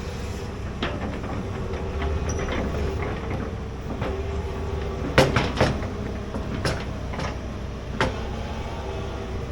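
Large excavator's diesel engine running steadily, with sharp metal clanks as it works, a close pair of them about five seconds in the loudest.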